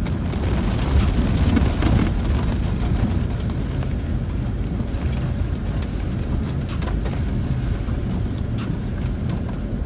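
Cabin noise of a Land Rover Discovery 4 driving over a rough, bumpy lane. The engine and tyres keep up a steady low rumble, with scattered light clicks and knocks throughout.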